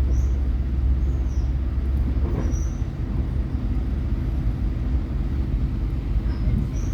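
Passenger train running between stations, heard from inside the carriage: a steady low rumble of wheels and running gear that eases slightly about two seconds in.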